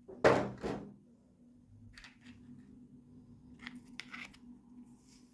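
Toy packaging being cut or torn open by hand: two short, loud strokes just after the start, then faint rustles and clicks of the packaging being handled, over a faint steady hum.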